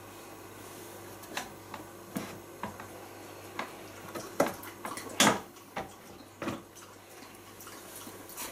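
Scattered knocks and clicks of things being handled, about a dozen irregular strikes with the loudest a little past the middle, over a faint steady background hum.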